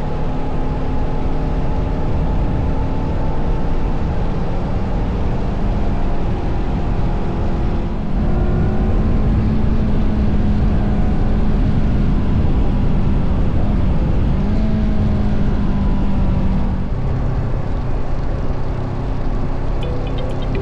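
Honda CBR500R's parallel-twin engine running while the bike is ridden, with a dense rush of wind and road noise. The engine note rises and gets louder about eight seconds in, then drops back to a lower, steadier note near seventeen seconds.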